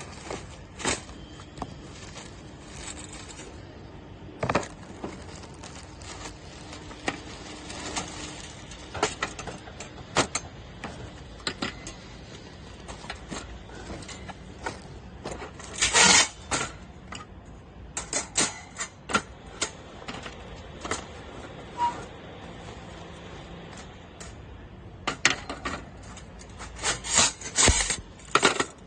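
Stainless steel parts of a folding camp stove clicking and clanking as they are handled, in scattered light knocks with louder clusters around the middle and near the end.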